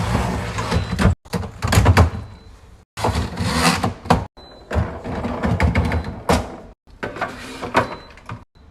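Kitchen restocking handling sounds: containers and packages being knocked, set down and rustled, with thuds and knocks. They come in short clips that cut off abruptly into silence about five times.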